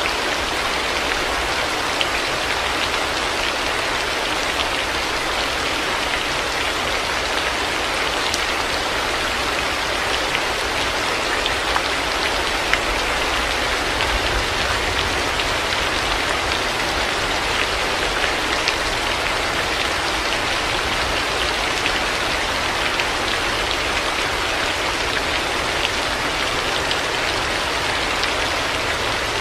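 Heavy rain falling steadily, an even hiss with scattered sharp drop ticks.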